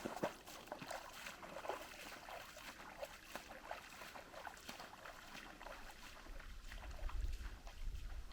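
Footsteps wading through shallow river water: irregular light splashes and sloshing with each step. A low rumble comes in about six seconds in.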